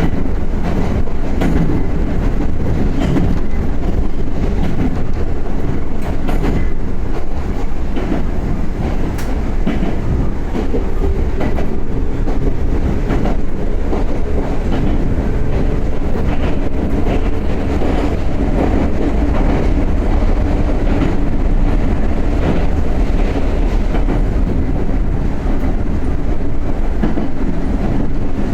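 Interior running sound of a Yoro Railway 7700 series electric train (ex-Tokyu 7700), heard from inside motor car Mo 7705 at speed: a loud, steady rumble with wheels clicking over rail joints.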